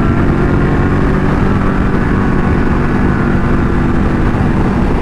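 Motorcycle engine running at a steady cruise while riding, its pitch holding nearly level, with wind and road rumble underneath.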